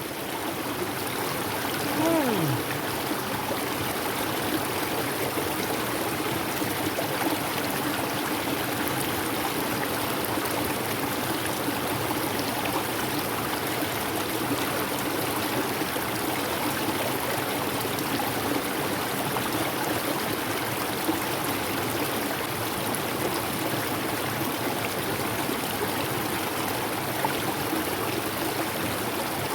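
Mountain river running steadily over rocks, a continuous rushing of water. A brief falling tone cuts through about two seconds in.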